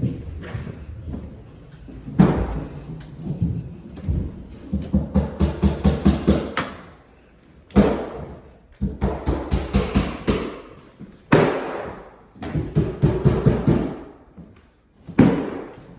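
Bursts of rapid knocking and thumping, about five strikes a second, with short pauses between the bursts.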